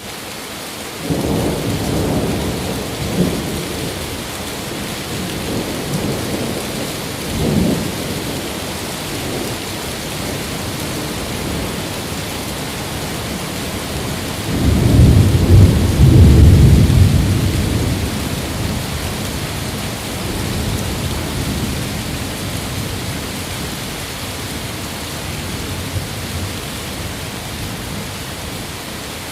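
Steady rain falling on windows, with rolling thunder: a first rumble with two sharper cracks in the opening seconds, then a louder, longer peal about halfway through that slowly dies away.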